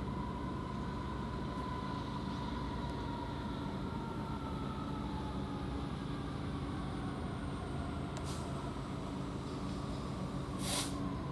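Class 66 diesel-electric freight locomotive approaching, its two-stroke V12 engine a steady low drone with a faint whine slowly falling in pitch. A short hiss about ten seconds in.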